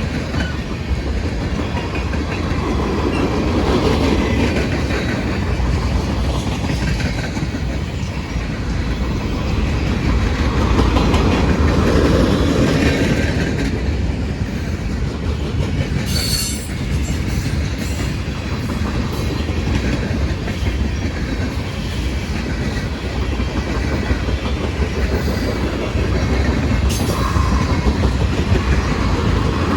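Long mixed freight train rolling past: a steady, loud rumble of freight car wheels on the rails, with a couple of brief sharp noises about halfway through and near the end.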